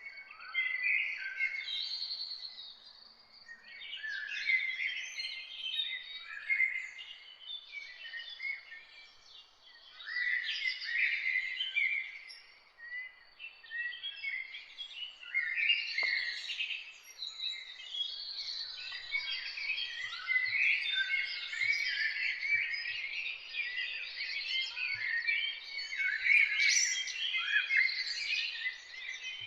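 Several songbirds singing and chirping together, a dense overlapping chorus of quick warbles and chirps that thickens in the second half.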